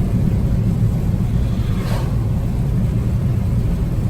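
Tyres running through heavy wet ice and slush, heard inside the cabin of a 2014 Chevrolet Spark EV as a steady low rumble.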